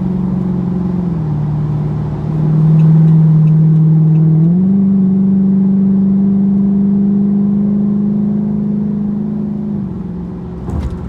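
Car engine running at held revs with a steady note. Its pitch drops about a second in, rises sharply about four and a half seconds in and holds, then drops again near the end.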